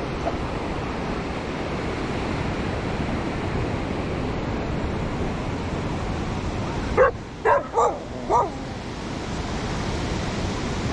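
A dog barks four quick times about seven seconds in, over the steady wash of surf.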